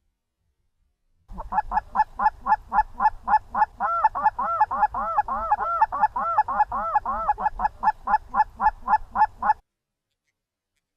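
Canada geese honking in a fast, steady run of about four honks a second, two voices overlapping in the middle. The honking starts and stops abruptly, about a second in and a second before the end.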